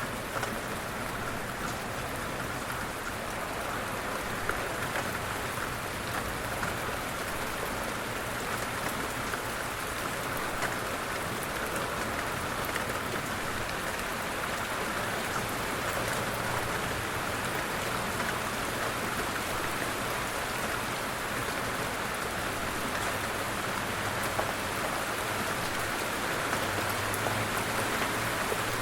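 Light rain falling steadily, a dense even patter of raindrops with scattered individual drops ticking out.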